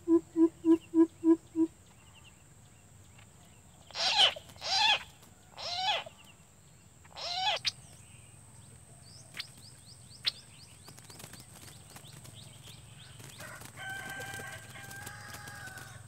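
Coucal hooting, a run of deep, evenly spaced hoots at about three a second that stops under two seconds in. Then comes the loudest sound, four loud harsh bird calls between about four and seven and a half seconds in, followed by faint chirps.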